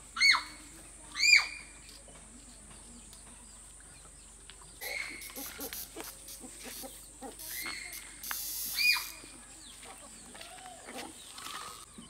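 Short bird calls, each a quick rise and fall in pitch, loud and sharp: two close together near the start and several more later. A faint steady high-pitched hum runs underneath.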